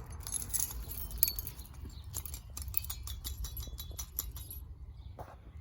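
A parrot's hanging musical toy struck with the bird's beak: a run of irregular clicks and jingles, with a thin high ringing that stops near the end.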